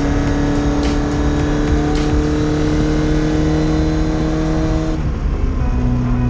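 Austin-Healey Sprite's four-cylinder A-series engine heard from inside the cabin, pulling steadily with its note rising slowly. About five seconds in the note breaks off and settles lower as the gear is changed.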